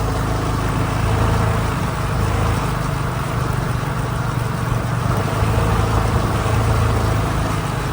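Motorcycle taxi's engine running steadily during the ride, with a constant low drone.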